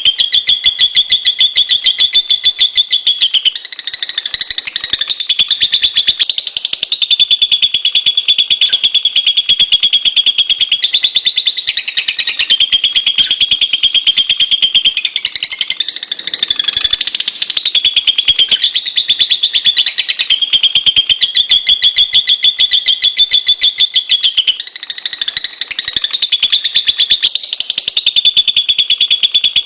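Lovebird chattering in a long, fast run of high, rapid notes, shifting pitch now and then with a few short breaks.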